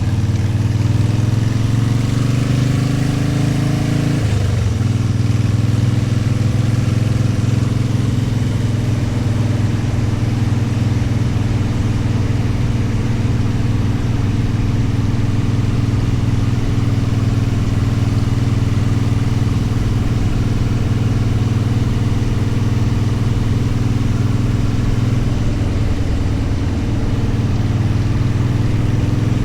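Motorcycle engine accelerating with a rising note, shifting up once about four seconds in, then running at a steady cruising speed.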